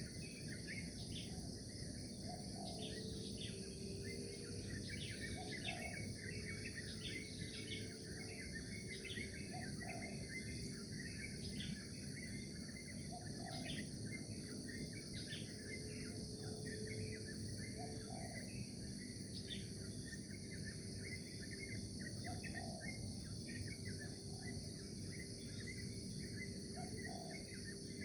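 Morning nature ambience: a steady high chorus of insects trilling, with many short bird chirps and twitters throughout and a short low call repeating every couple of seconds.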